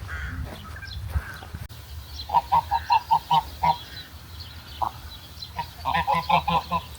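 Geese honking in two quick runs of short calls, about five a second, the first a couple of seconds in and the second near the end.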